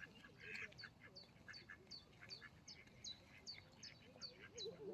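Ducks calling faintly: a steady run of short, high, falling peeps, about three a second.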